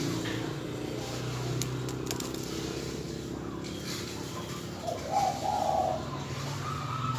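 Doves cooing: a low coo that fades out in the first second or so, a short higher call about five seconds in, and another call starting near the end.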